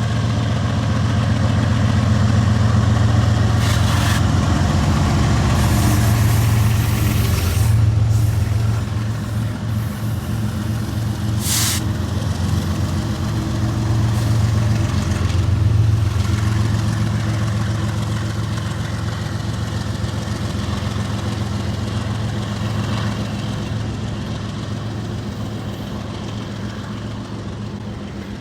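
Several BNSF diesel-electric freight locomotives, about 13,000 horsepower together, working hard to start a very long stack train, a deep steady engine drone. Short hissing bursts break in twice, the clearer one about twelve seconds in, and the engine sound slowly eases off near the end.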